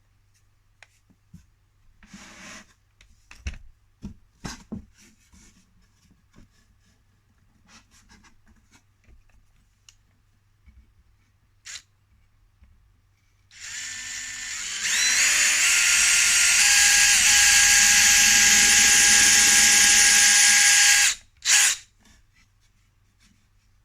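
Power drill pre-drilling a pilot hole into a wooden hive box: the motor whine starts about 13 seconds in, runs loud and steady for about six seconds, stops suddenly, then gives one short burst. Before it come scattered knocks and clicks from handling the wood and the drill.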